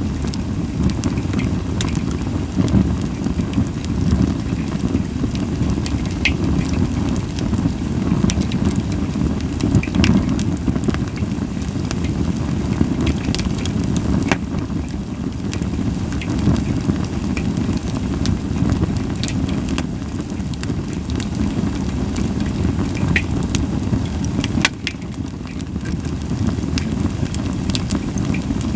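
Japanese white pine firewood burning in an open fire pan, with scattered sharp crackles and pops over a steady low rumble of flame, and little hissing.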